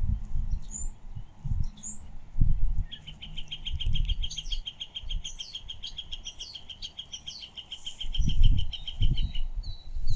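Birds calling outdoors: a couple of short rising chirps, then a long, even trill of about eight notes a second lasting some six seconds, with other chirps above it, and a run of short repeated notes near the end. Low rumbling thumps come and go underneath, loudest near the end.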